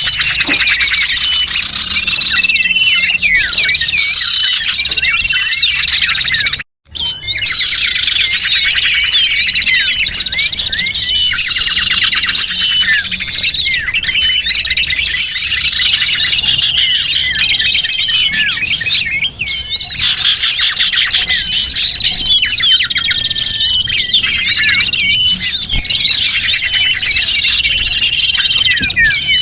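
Small birds chirping and trilling rapidly in a dense, high-pitched mix, played as a lure call (pikat) to draw in small birds. The sound cuts out for a split second about seven seconds in.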